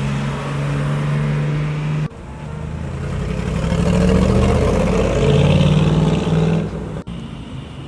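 Car engines: one runs steadily with a low hum, then breaks off abruptly about two seconds in; a second car's engine grows louder as it comes close and breaks off abruptly about seven seconds in.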